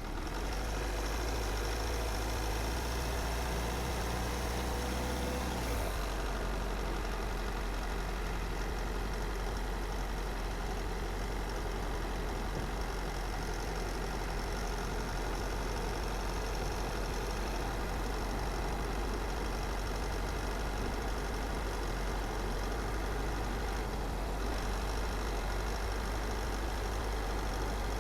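Car driving along a road: steady engine and tyre rumble. A pitched engine note changes about six seconds in.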